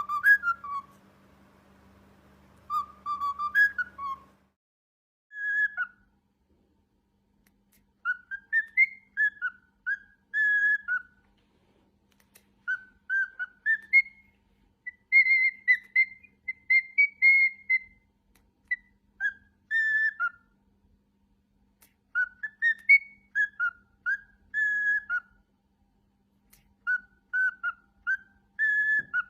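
Cockatiel whistling a tune: repeated phrases of clear whistled notes that glide up and down, with short pauses between phrases.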